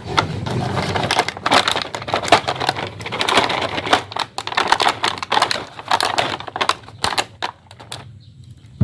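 Hands handling toy packaging: rustling with many quick clicks and taps, thinning to a few scattered clicks near the end.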